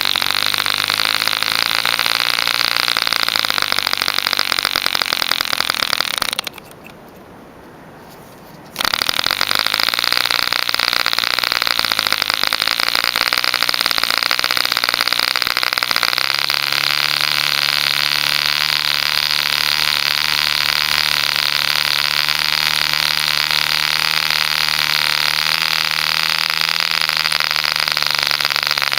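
Homemade Mills-type 0.75 cc contra-piston model diesel engine running fast with a steady high buzz. The sound breaks off abruptly about six seconds in and comes back about two seconds later. About sixteen seconds in, the engine's note shifts slightly and then holds steady.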